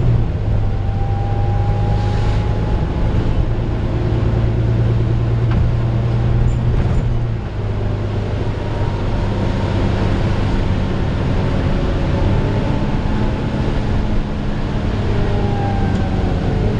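Volvo B9TL bus's six-cylinder diesel engine running, heard from inside the bus, with faint whines that rise and fall in pitch. The engine note drops and changes about seven and a half seconds in.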